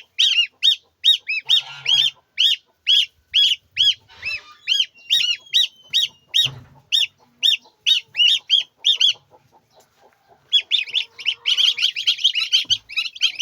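Young poultry chicks peeping: a steady run of short, high peeps about three a second, a brief pause, then several chicks peeping over one another near the end. A single dull knock sounds about halfway through.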